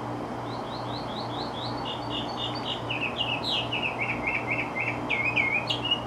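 A songbird singing a quick run of short repeated chirps, the phrase stepping down in pitch every second or so. A steady low hum runs underneath.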